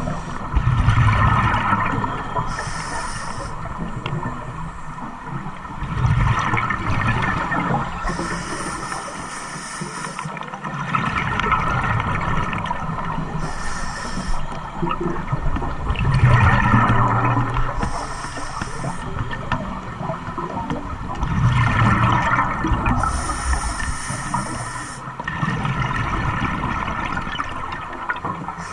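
An engine running in slow, regular cycles, with a surge about every five seconds and a gurgling, water-like sound.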